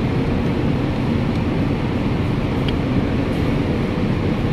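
Steady low background rumble with a faint hum, from machinery running nearby, not from the car, whose engine is dead.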